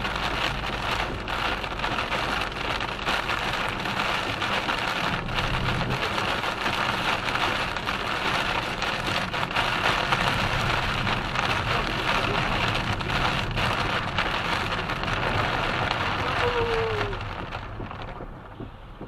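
Heavy rain drumming on a car in a motorway thunderstorm: a dense, steady hiss full of sharp drop impacts over a low road rumble. It drops off sharply near the end.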